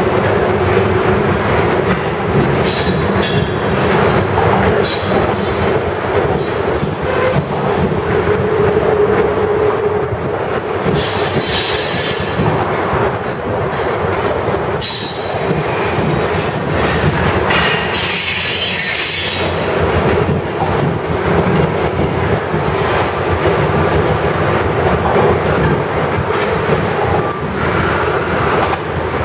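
CSX covered hopper cars of a freight grain train rolling past: a steady rumble of steel wheels on rail. High-pitched wheel squeal rises over it several times, strongest about a third of the way in and again around two thirds of the way through.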